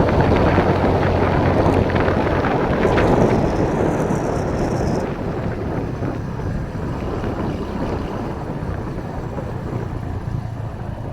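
Steady low rumble of a running motor vehicle mixed with wind noise on the microphone, easing somewhat about five seconds in.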